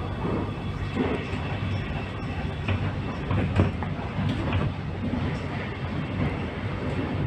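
X'Trapolis 100 electric suburban train in motion, heard from inside the carriage: a steady low rumble with irregular clacks of the wheels over the rails.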